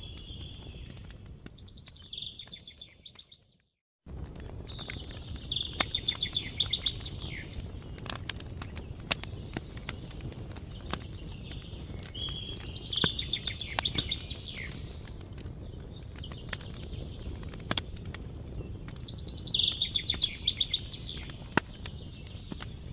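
Campfire crackling with scattered sharp pops over a low steady rumble, while a songbird sings a short trilling phrase every six or seven seconds. The sound fades away about three seconds in and cuts back in abruptly a second later.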